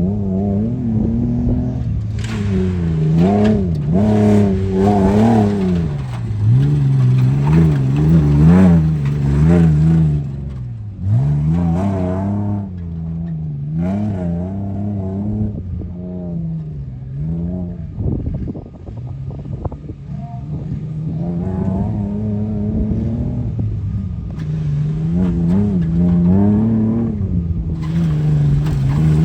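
Tuff truck competition truck's engine revving hard and falling back again and again, its pitch swinging up and down every second or two, easing off briefly past the middle before climbing again.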